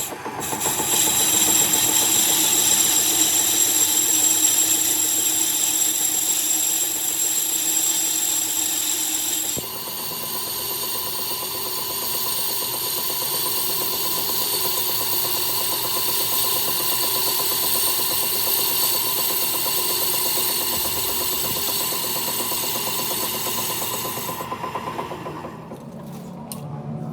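Power tool working on metal: a loud, steady, high-pitched rasping sound that shifts in tone about ten seconds in and stops a few seconds before the end.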